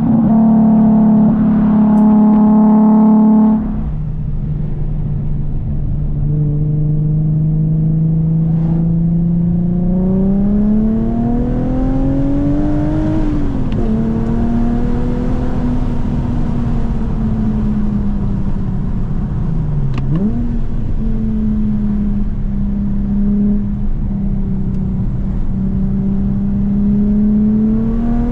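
Infiniti G37S's VQ37 V6 running through a 3-inch single catback exhaust, the car being driven. Its note drops in pitch a few seconds in, climbs steadily as it accelerates around the middle, then eases back. Two-thirds of the way through it dips sharply and recovers, then holds a steady drone.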